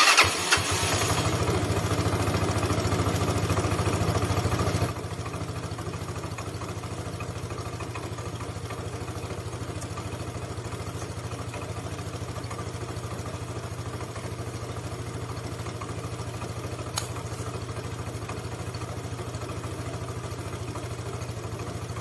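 Yamaha Cygnus scooter's single-cylinder four-stroke engine running on fresh engine and gear oil, at a higher, louder idle for about five seconds, then settling to a lower steady idle. A single short click about 17 seconds in.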